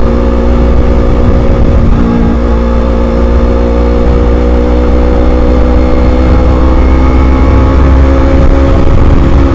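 Motorcycle engine running at a steady speed, with heavy wind buffeting the microphone.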